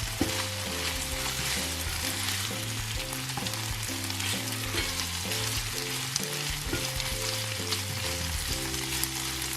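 Chicken and onions sizzling steadily in oil in a frying pan, with background music of held low notes playing underneath.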